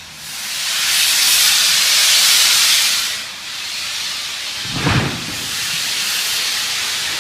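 Steam locomotive hissing loudly as it lets off steam. The hiss eases about three seconds in, a single low thump comes near five seconds, and then steadier hissing follows.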